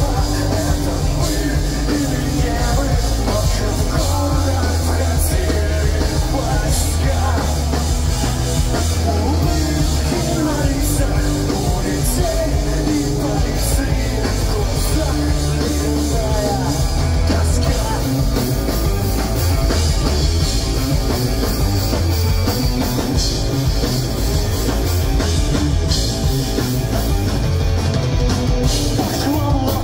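A pop-punk rock band playing live, loud and continuous, through a club PA.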